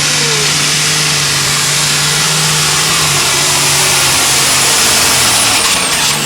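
Alcohol-fuelled light super stock pulling tractor's engine running flat out under load during a pull: a loud, steady drone with a thin high whine above it. The pitch starts to drop near the end.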